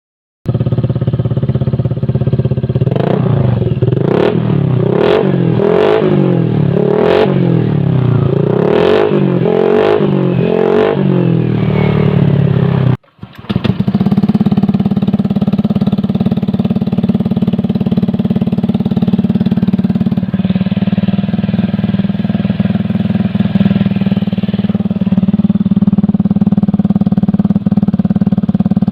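Motorcycle engine running through a Scorpion aftermarket exhaust, blipped repeatedly about once a second, then after a brief break idling steadily.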